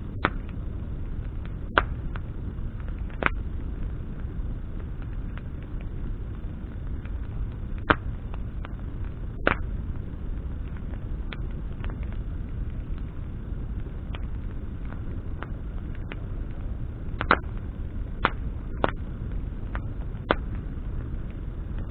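Bonfire of burning branches crackling: irregular sharp pops and snaps, a few louder ones about two seconds in, around eight and nine and a half seconds, and a cluster near the end, over a steady low rumble of the flames.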